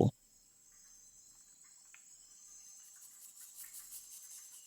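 Near silence: a faint, steady high-pitched chirring with scattered soft ticks in the background.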